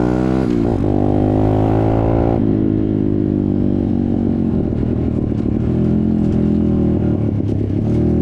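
Dirt bike engine accelerating, its pitch rising with a quick gear change about half a second in. At about two and a half seconds the throttle is rolled off and the engine drops to a lower, rougher running as the bike slows.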